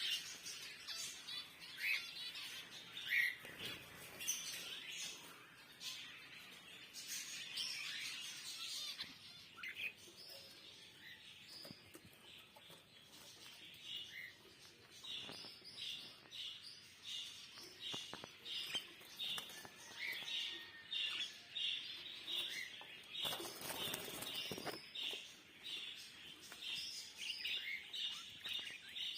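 Small birds chirping and tweeting, several calls overlapping. In the second half one bird repeats a short chirp about twice a second. There is a brief rush of noise about three-quarters of the way through.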